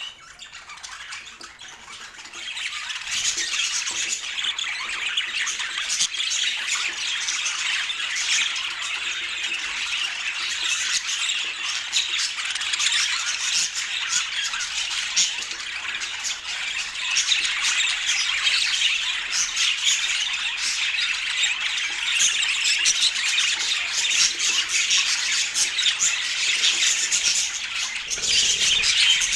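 Budgerigars calling in a dense, continuous chatter, building up over the first few seconds and then holding steady.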